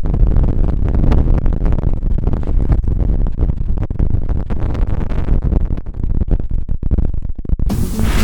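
Strong lakeside wind buffeting the microphone: a loud, gusty rumble that rises and falls. Plucked guitar music comes in near the end.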